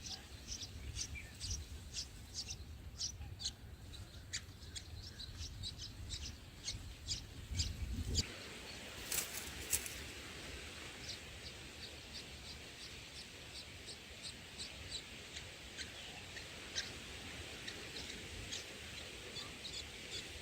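Small birds chirping: rapid, short, high chirps repeated throughout, over a low rumble that stops about eight seconds in. A brief louder high-pitched burst comes a little after that.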